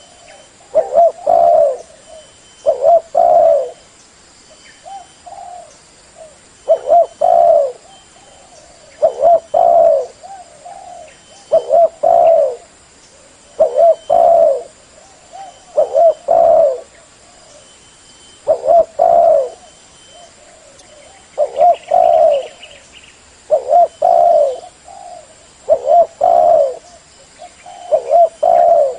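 Spotted dove cooing over and over, a low phrase of several notes repeated about every two seconds, about a dozen phrases in all.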